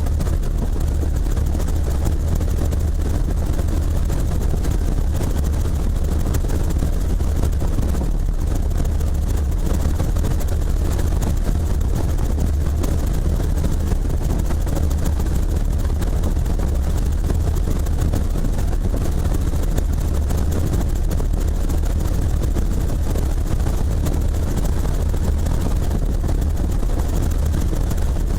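Helicopter in flight: a steady, loud drone of rotor and engine noise, heaviest in the low end, with no change in level.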